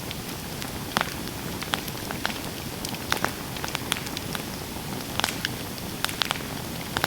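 Campfire burning: irregular sharp crackles and pops, roughly two a second, over a steady hiss.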